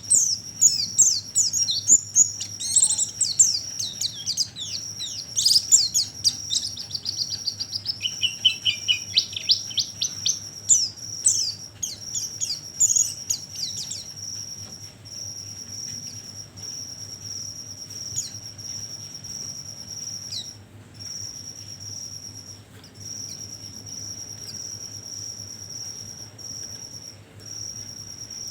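White-eyes (pleci) twittering in rapid, high chirps for about the first half, over a steady high cricket-like trill with short breaks every couple of seconds that carries on alone for the rest; a lure recording of white-eye calls.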